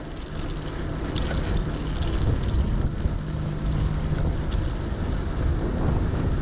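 Wind buffeting the microphone and tyre noise from a moving electric bike, with a faint steady low hum that drops out briefly partway through and then returns.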